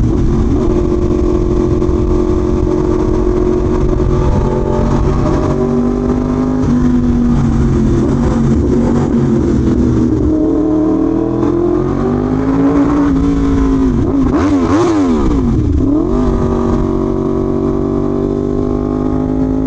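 Yamaha R1M's crossplane inline-four engine running at a steady cruise, heard from the rider's position with wind rush over the microphone. A little past halfway the engine note dips and climbs back through throttle changes, then holds steady again.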